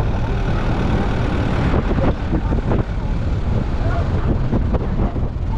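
A car driving along a road: steady engine and road rumble.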